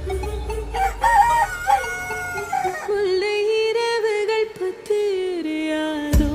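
Rooster crowing, ending in a long held crow that falls away in pitch, with music coming in right at the end.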